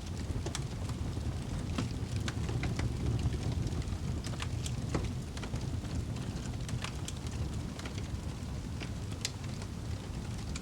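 Wood fire burning in a fireplace: a steady low rush of flame with irregular sharp crackles and pops, several a second at times.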